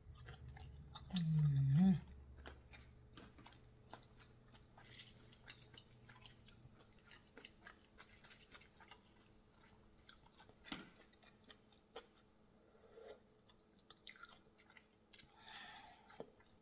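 Close-miked chewing of mussels and shrimp, with wet mouth clicks and smacks. About a second in there is a short voiced hum with a bending pitch, the loudest sound here.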